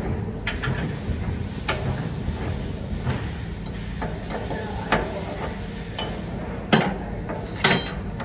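Scattered clicks and knocks of parts and tools being handled while a screen printing machine is taken apart, over a steady low hum. Two sharper, louder knocks come near the end.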